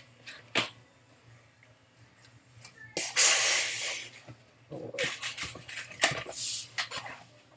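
Air hissing in bursts as a latex twisting balloon is inflated, a long rush about three seconds in and several shorter ones later.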